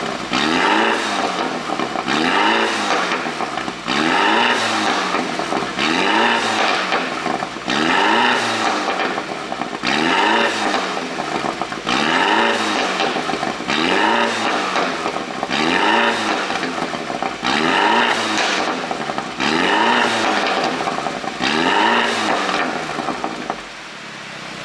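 2018 BMW 530i's turbocharged 2.0-litre four-cylinder being blipped about a dozen times, roughly every two seconds, each rev rising and falling, with pops and crackles from the exhaust as the revs drop: the overrun crackle of an ECU pop-and-bang tune. It settles to idle near the end.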